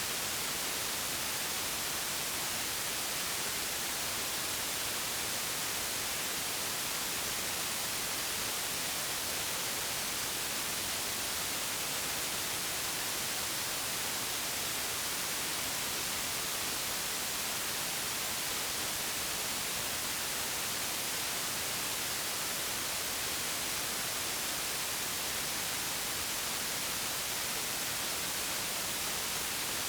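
Steady white noise: an even, unchanging hiss with most of its energy in the upper range.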